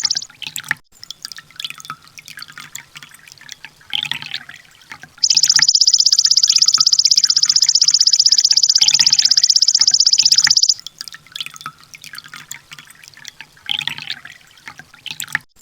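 Sunbird song: a loud, rapid, evenly pulsed high trill, the 'tembakan' phrase used in bird-training recordings, starting about five seconds in and lasting about five and a half seconds, with softer scattered chirps before and after it.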